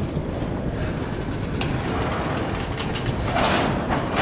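Double-stack intermodal freight train's well cars rolling past close by, a steady low rumble with the clack of wheels over the rails. The wheel noise swells louder about three seconds in.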